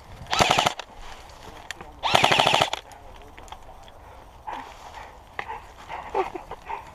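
Airsoft electric rifle firing two short full-auto bursts of rapid clicks, the second about two seconds after the first and a little longer.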